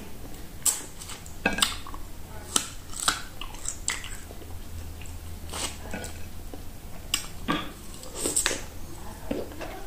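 Close-up mouth sounds of a person biting and chewing meat off the bone, with irregular sharp cracks and crunches, about a dozen spread through.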